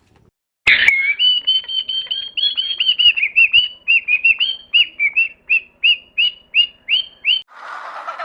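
An animal calling in a rapid series of short, high chirps, about three a second. The calls start right after a sharp click and stop about a second before the end.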